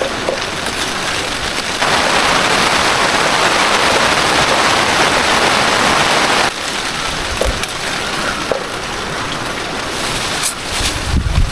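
Heavy rain falling in a steady hiss, which turns abruptly louder and brighter for about four seconds in the middle before dropping back. A low rumble comes in near the end.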